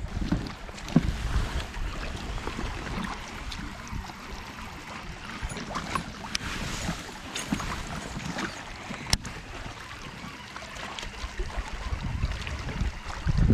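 Wind buffeting the microphone and water around a fishing kayak, with scattered small clicks and one sharp click about nine seconds in.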